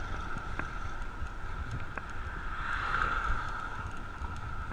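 Riding noise from a bicycle on the road, with wind rumbling on the microphone, a steady high hum and two faint clicks, one about half a second in and one about two seconds in.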